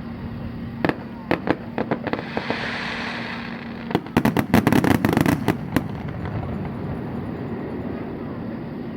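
Fireworks bursting: a few scattered bangs, a hissing stretch, then a rapid cluster of bangs about four seconds in.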